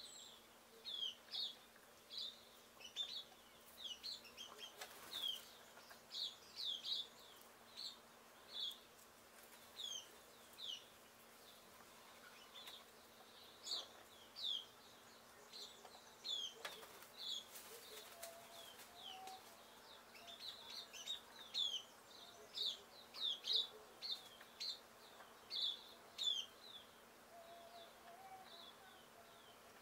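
A small bird chirping over and over: short, high chirps that fall in pitch, about one or two a second, in loose runs with a brief lull midway.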